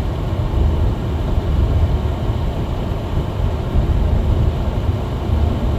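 Steady low rumble of a car's engine and tyres on a snowy road, heard inside the cabin while climbing.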